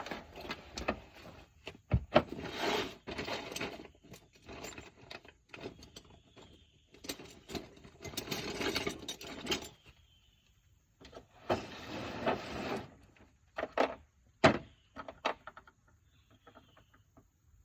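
Metal hand tools being worked in short bursts of rapid clicking and clatter, with single sharp knocks about two seconds in and again near fourteen and a half seconds.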